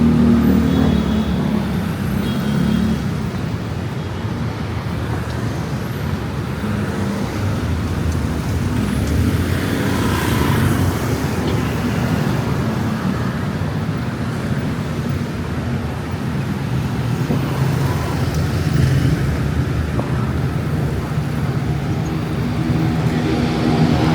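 Busy city road traffic: a steady mix of car and other motor-vehicle engines and tyre noise passing close by, with engines swelling near the start and the end.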